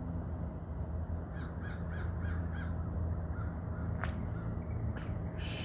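A flock of crows cawing: a quick run of five caws about a second in, then scattered calls, over a steady low rumble.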